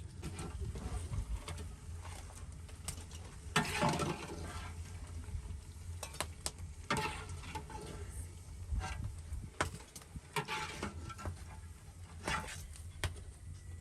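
A utensil scraping and knocking against a cooking pot as food is stirred, in irregular strokes over a steady low rumble.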